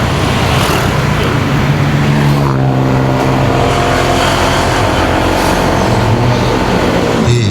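Motorcycle engine running under wind and road noise while riding. About two and a half seconds in, the engine note drops and settles into a steady hum as the bike slows. Near the end the note rises again as the throttle opens.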